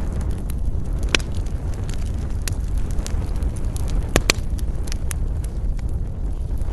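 Wood fire in a fireplace crackling: sharp pops come about once a second, two loudest close together past the middle, over a steady low rumble.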